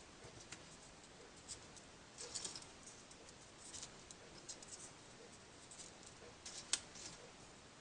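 Folded paper triangle pieces of a 3D origami model being handled and pushed into place, with faint irregular rustling and small clicks and one sharper click a little before the end.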